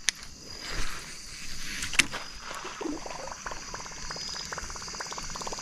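Topwater lure being retrieved across the water: a fast run of ticks and light churning from about two and a half seconds in, after two sharp clicks. Insects hum steadily.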